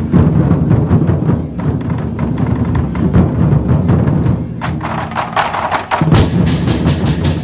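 Vietnamese lion dance drum beaten in a fast, dense rhythm. About four and a half seconds in, cymbals join with sharp clashes several times a second.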